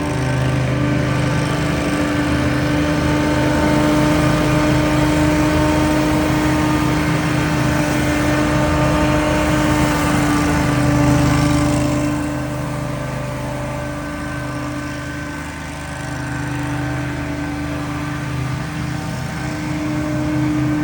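Small engine of outdoor power equipment running steadily at speed. It eases off about twelve seconds in and picks up again near the end.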